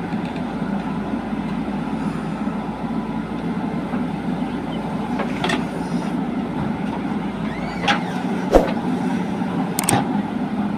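Backhoe loader's diesel engine running steadily, with a few sharp knocks in the second half.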